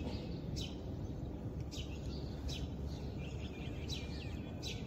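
Birds chirping with short, high, falling calls that repeat roughly once a second, over a steady low background rumble of outdoor noise.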